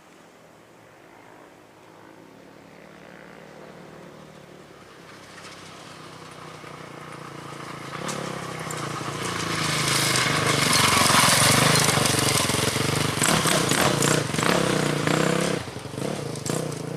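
Engine of an off-road race bike or quad approaching from afar, growing steadily louder until it passes close by about eleven seconds in, the throttle coming on and off unevenly through the bend, then dropping away near the end.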